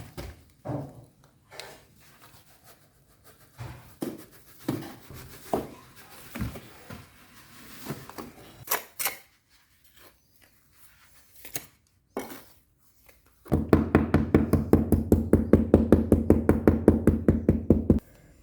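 Building work at a door opening: scattered knocks, taps and scrapes of hand work on a wooden board. Then, about two-thirds in, a loud, fast, even mechanical rattle starts, runs about four seconds and stops abruptly.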